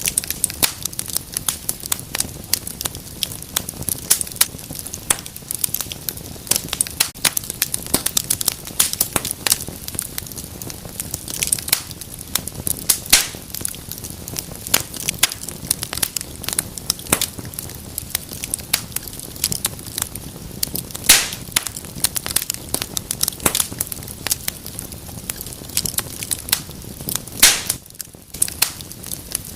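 Wood fire burning in a fireplace: a steady low rumble of the flames with dense, irregular crackles and pops throughout.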